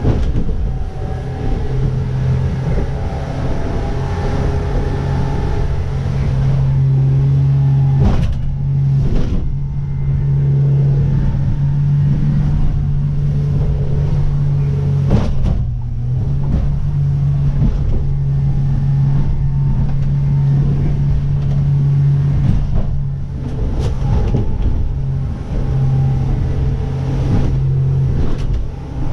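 Jeanneau Merry Fisher motorboat's engine running under way, a steady low drone. A few sharp knocks break through it at irregular intervals.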